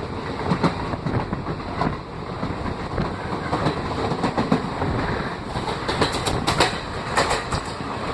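A passenger train running along the track: a steady rumble with the irregular clack of wheels over rail joints. About two thirds of the way through comes a louder stretch of sharp rattling clatter.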